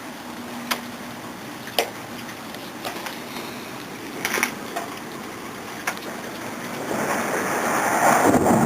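Storm wind gusting over the microphone, with a few sharp clicks scattered through it; a stronger gust builds from about seven seconds in and is loudest near the end.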